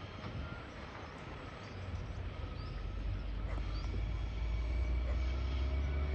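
Container wagons of a freight train rolling past, a low steady rumble that grows louder about two seconds in. Faint bird chirps sound over it.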